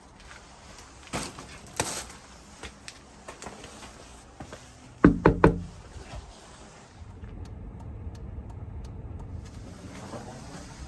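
Car door shut with three heavy thuds about halfway through, after a couple of lighter clicks; then a low steady rumble from about two-thirds of the way in.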